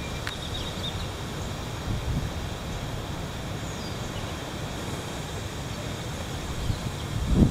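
Heavy wind blowing, a steady low rumble of wind buffeting the microphone that grows stronger near the end.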